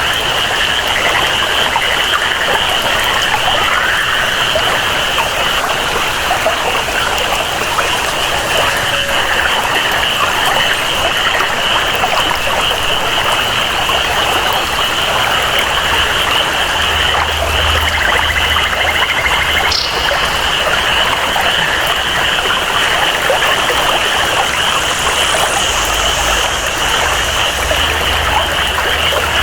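Tropical rainforest ambience: steady rainfall and flowing water under a continuous high-pitched jungle chorus.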